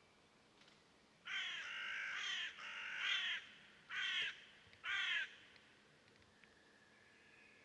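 A bird giving four harsh, caw-like calls, the first two long and the last two short. A faint thin whistle from another bird comes in near the end.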